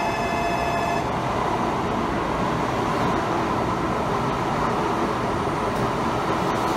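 A 16-car N700-series Shinkansen pulling into the station alongside the platform: a steady rush of wheels and air as the cars go by. A held tone of several pitches cuts off about a second in.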